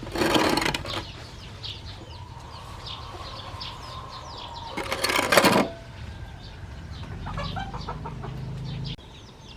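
Chickens flapping their wings in two short loud bursts, one just after the start and one about five seconds in, amid many short high peeps from baby birds.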